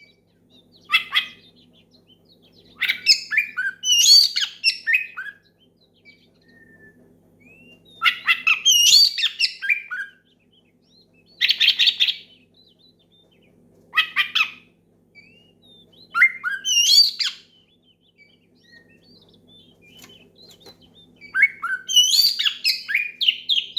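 Oriental magpie-robin (kacer) singing loud, varied whistled phrases in short bursts of a second or two, with pauses of a few seconds between and a denser run of song near the end. A faint low hum sits under the gaps.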